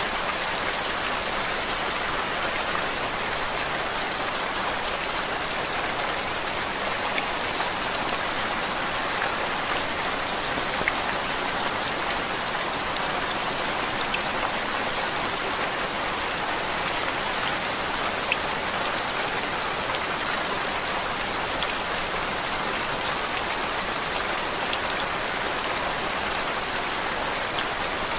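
Steady rain falling on a surface, used as a white-noise background: an even hiss with scattered faint ticks of single drops.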